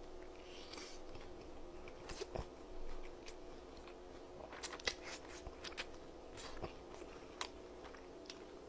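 A person eating close to the microphone: soft chewing with scattered wet mouth clicks and a few small crunches, over a faint, steady low hum.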